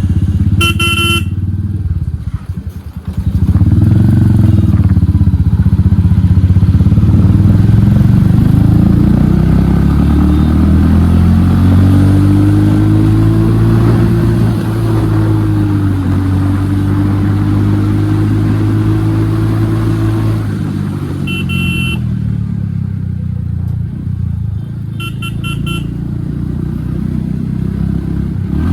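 Royal Enfield Hunter 350's single-cylinder engine running on the move through an aftermarket HK exhaust with the dB killer removed. The engine note drops briefly two to three seconds in, then picks up again and holds steady, rising gently in pitch in the middle. Short vehicle-horn beeps sound about a second in and twice in the last seven seconds.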